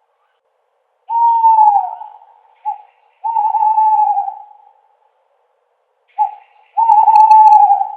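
Owl hooting: a series of hollow hoots. One falls in pitch about a second in, then twice a short note is followed by a longer held hoot.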